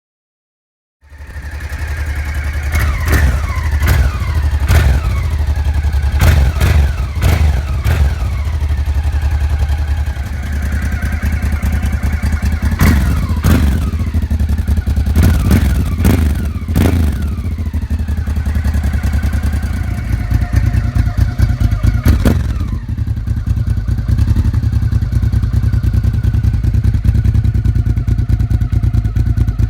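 Honda XRV750 Africa Twin (RD07) V-twin engine running through an Arrow aftermarket exhaust, its throttle blipped sharply about ten times, the revs falling back each time. From about two-thirds of the way through it settles into a steady idle.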